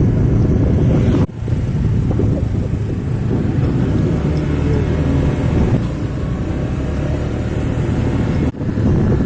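Heavy truck engine running close by, a loud, steady low engine note. It cuts out very briefly twice.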